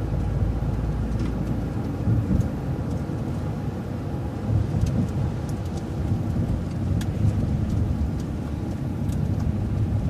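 City transit bus driving, heard from inside: a steady low engine and road rumble with a few light rattles and clicks.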